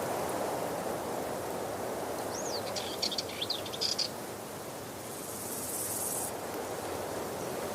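Steady rushing of a waterfall, with a short burst of bird chirps about two to four seconds in and a brief high hiss for about a second after that.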